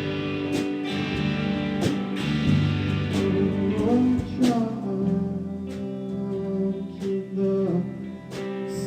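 Live band music: strummed guitar chords with sustained notes under them and a voice singing at times, between the sung lines of a song.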